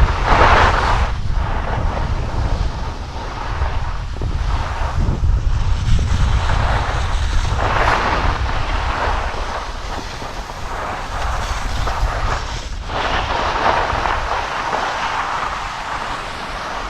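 Wind rushing over the microphone while skiing downhill, a steady low rumble, with the hiss of skis sliding on snow swelling and fading with the turns, loudest near the start, about halfway through and again near the end.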